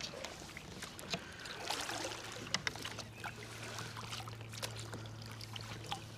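Light water splashing with scattered small clicks and knocks around a kayak while a hooked smallmouth bass is being played, and a faint steady low hum from about two seconds in.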